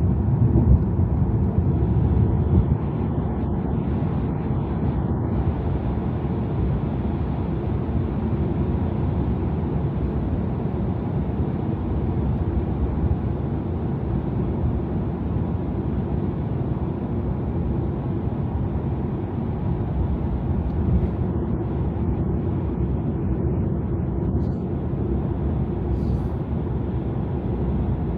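Steady road and tyre noise from a Tesla electric car cruising at highway speed, with no engine sound, only an even low rumble that holds without change.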